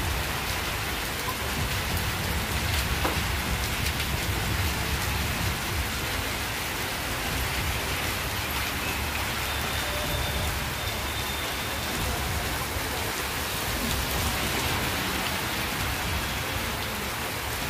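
Heavy rain falling steadily onto a flooded road, an even, unbroken hiss of drops striking standing water.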